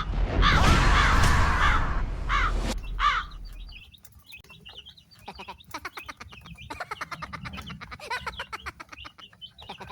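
Chicks peeping. The first few seconds hold loud, harsh calls over a noisy rumble, followed by many short, high peeps in quick succession.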